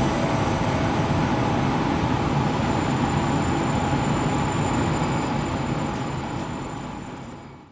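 737-series electric train running noise, steady and even with a faint high whine, fading away over the last two seconds.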